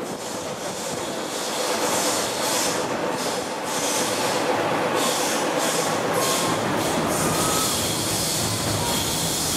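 Sydney Trains double-deck electric suburban train passing over a railway bridge: a steady rumble of wheels on rails that swells about two seconds in and holds, with faint brief wheel squeals.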